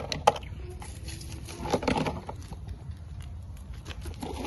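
Hands rummaging through leaves and ground litter: scattered light clicks and crackles, with a louder rustle about two seconds in.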